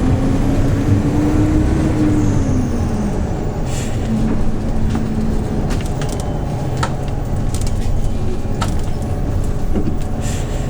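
Hyundai New Super Aero City bus's CNG engine pulling under load, its pitch rising over the first two seconds and then dropping back as the bus shifts or eases off, then running steadily. Short hisses come about four seconds in and again near the end, over small rattles.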